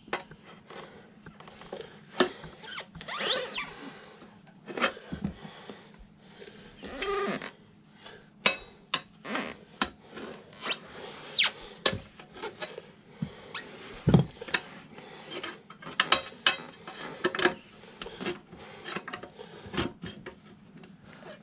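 A motorcycle tire being worked off its rim by hand with metal tools: scattered clicks, knocks and scraping, with a few short squeaks, and one sharp knock a little past the middle.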